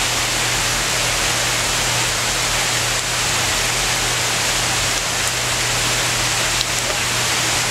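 Heavy rain pouring down, a steady, even hiss with no break.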